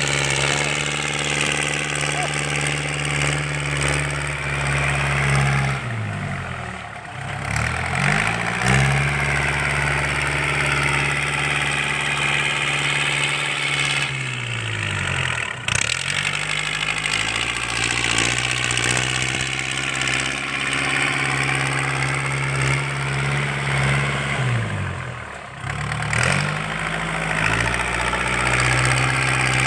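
L50 tractor's diesel engine running through a straight-through aftermarket exhaust, loud and steady at high revs. Three times the revs fall away and then climb back.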